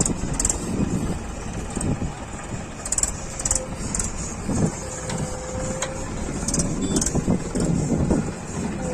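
Diesel engine of a JCB 3DX backhoe loader running with a steady rumble, and a faint whine comes in a few seconds in.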